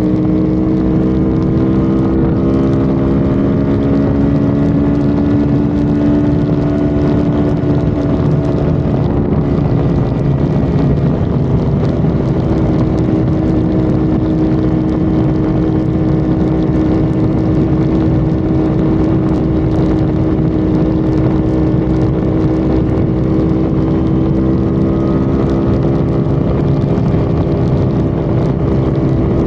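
Honda Civic FD's engine running at steady high revs at highway speed, with road and wind noise. The engine's pitch climbs a little over the first few seconds, eases off, then holds steady.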